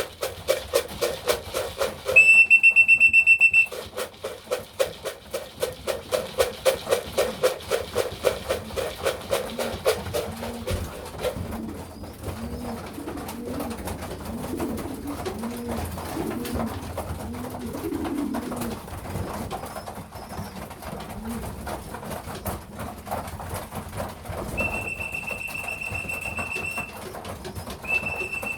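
A pigeon fancier's whistle blown in long steady blasts, once a few seconds in and twice near the end, calling racing pigeons in to the loft. Between the blasts, pigeons coo with rising-and-falling calls. A fast, even pattering of about five pulses a second fills the first ten seconds or so.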